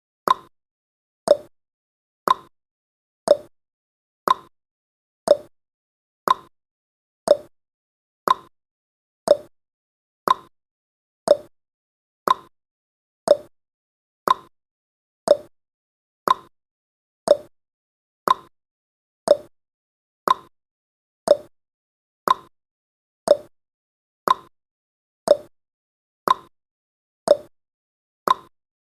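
Countdown timer's ticking sound effect: a short, sharp tick once every second, alternating between a lower and a higher pitch like a clock's tick-tock.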